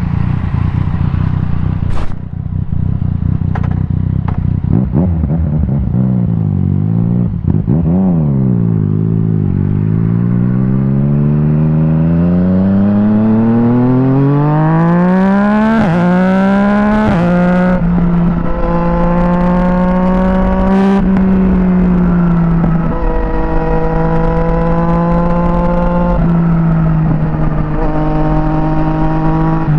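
Yamaha MT-09 SP three-cylinder engine through an Akrapovic exhaust, running low at first, then revving up and down as the bike pulls away. It then climbs steadily in pitch through a long acceleration, with a rush of noise near the top, and settles to a fairly steady cruise with small changes in pitch.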